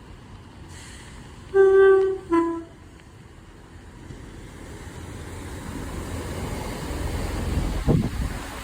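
Train horn sounding two short notes, high then low, followed by the low rumble of a train growing louder as it approaches, with a short thump near the end.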